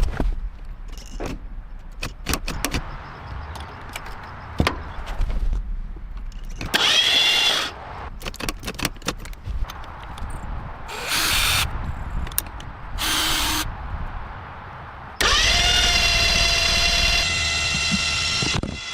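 Workshop tool sounds: scattered clicks and knocks with short bursts of a power tool whining up to speed, then from about three-quarters through a power tool running steadily with a high whine.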